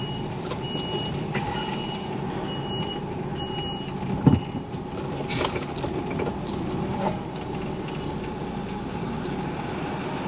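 Lorry's reversing alarm beeping, about six high beeps at one pitch about a second apart, stopping about four seconds in with a thump. A short hiss follows a second later, and the diesel engine runs steadily underneath throughout.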